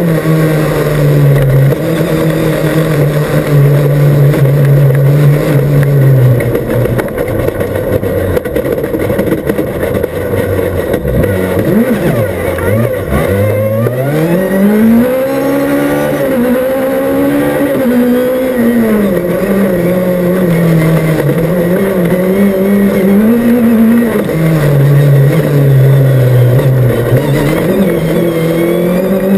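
Rally car engine heard from inside the cabin, revving up and down as the driver works the throttle and gears, over steady tyre and road noise. The pitch holds steady at first, drops and dips through the middle, then climbs sharply about halfway and keeps rising and falling.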